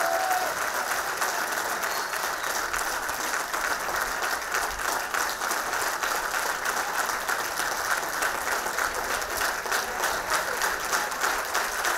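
An audience applauding steadily, many hands clapping without a break.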